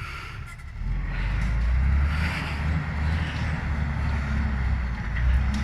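Low engine rumble of a Ural vehicle running, growing louder about a second in and then holding steady.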